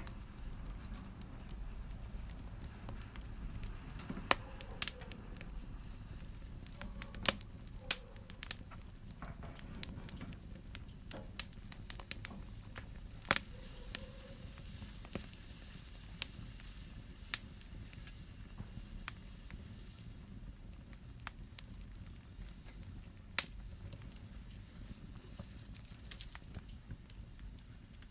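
Fire crackling in a fireplace: irregular sharp pops and snaps over a soft, steady rush of flame. The pops come thickest in the first half and thin out later.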